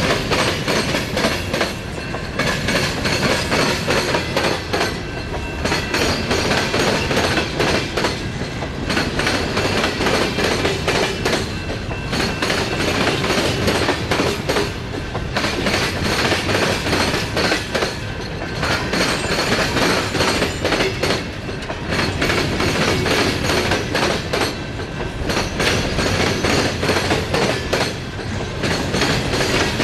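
Empty steel coal hopper cars rolling past close by, their wheels clicking over the rail joints in a continuous clatter that swells and eases about every three seconds as each car goes by, with a thin high squeal from the wheels on the rail.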